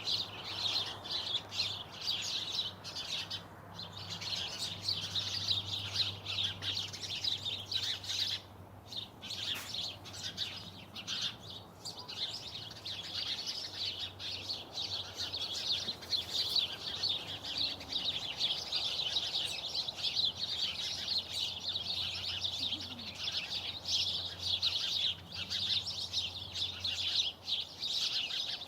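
Many small birds chirping together in a continuous, overlapping chorus of short high calls.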